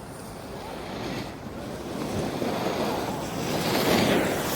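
Skiing or snowboarding edges scraping across packed snow: a rushing hiss that swells over a few seconds to its loudest near the end, then drops suddenly, with wind on the microphone.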